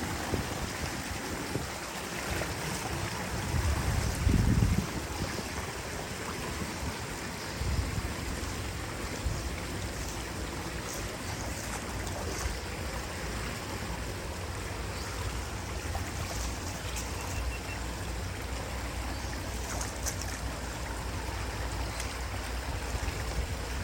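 Steady rush of flowing water with a low rumble underneath that comes in about eight seconds in, and a brief heavier low thump about four seconds in.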